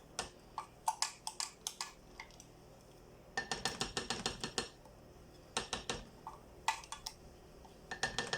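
A small spoon clinking and scraping against a milk-frothing jug and cup in irregular clusters of quick taps while foam is scooped out, busiest about halfway through.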